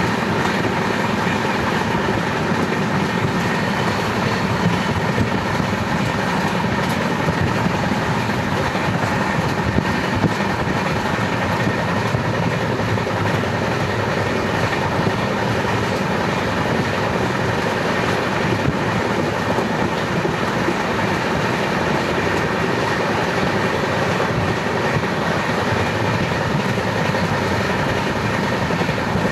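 Steady running noise of a moving train heard from inside the carriage: the constant rumble and hiss of wheels on the rails, with a faint steady whine.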